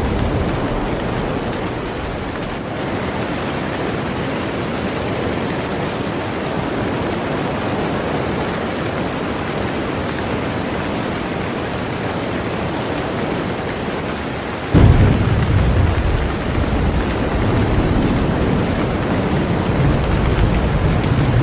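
Heavy rain falling steadily on a boat. About fifteen seconds in, a low rumble of thunder sets in suddenly and keeps rolling.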